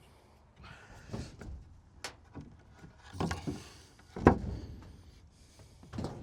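Wooden boards being handled and set down: a series of knocks and thuds with scraping between them. The sharpest knock comes about four seconds in.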